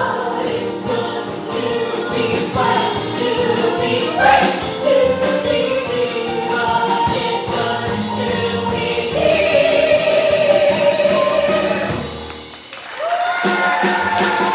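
Stage song: singing voices with musical accompaniment, in long held notes. Near the end the music drops away for a moment, then a new held note comes in.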